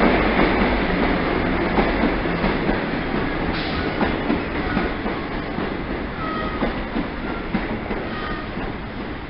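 Mark 3 coaches of an InterCity 125 (HST) rolling past as the train runs into the platform, wheels clicking over rail joints. The rumble fades steadily as the train slows, and a few short faint squeals come in the second half.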